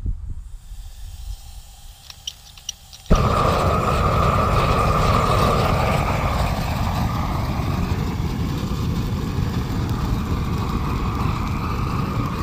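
A few light clicks, then about three seconds in a propane torch lights with a sudden pop and burns steadily with a loud rushing hiss.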